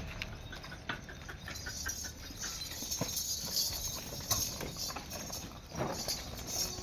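Goats' hooves clattering as they move about, a scattered run of short, sharp knocks, quickest between about one and three seconds in.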